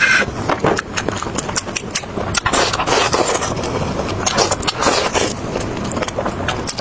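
Close-up eating of crispy fried chicken legs: chewing and crunching with many irregular crisp crackles.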